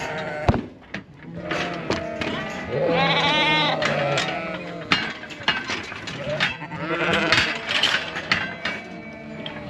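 Ewes and lambs bleating repeatedly, calls overlapping, while they are being separated at weaning. A few sharp knocks cut in, the loudest about half a second in.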